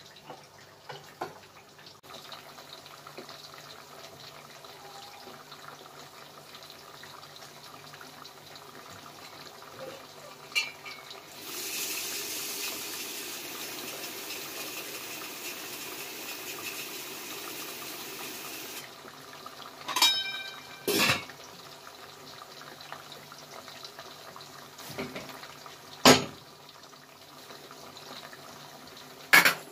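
Potato sticks deep-frying in hot oil in a pot, a steady sizzle that grows much louder for several seconds around the middle. Near the end come a few sharp metal clinks and knocks of kitchenware, one of them ringing.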